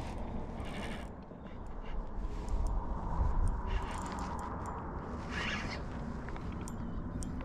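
Wind rumbling on the microphone, with short scraping and clicking handling noises and a brief raspy sound about five and a half seconds in.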